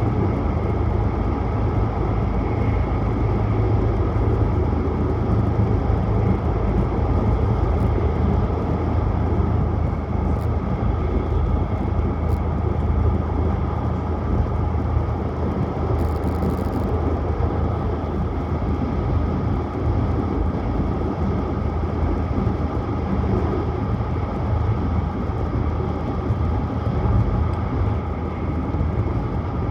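Tohoku Shinkansen Hayabusa train running at speed, heard from inside the passenger cabin: a steady, unbroken rumble, strongest in the low end, with a brief faint tick about sixteen seconds in.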